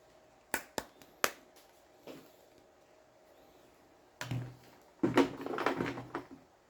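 Handling noises from unpacking a mop-and-bucket set: three sharp clicks in the first second or so, then a burst of rustling and knocking of parts for about two seconds near the end.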